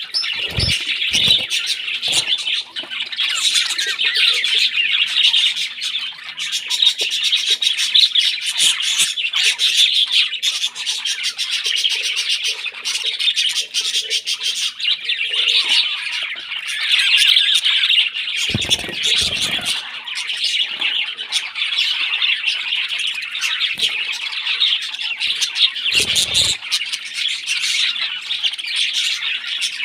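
Baby parrots squawking without a break in rapid, raspy calls, the begging of chicks at feeding time. A few low thumps break in near the start and twice later on.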